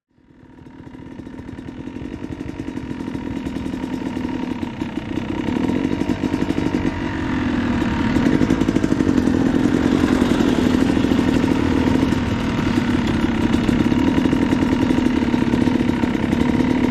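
Dirt bike engines running, fading in and growing louder over the first several seconds, then holding steady.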